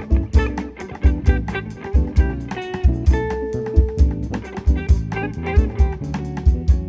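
A small band playing instrumental music, with guitar, bass and drums, keeping a steady beat. One note is held for about a second near the middle.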